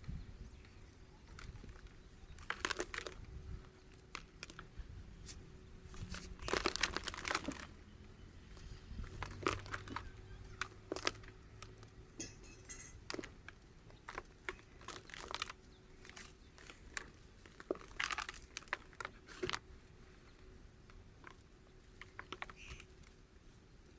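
Dry, dusty clumps crumbling in irregular crackles and crunches, with denser bursts about three, seven, fifteen and eighteen seconds in.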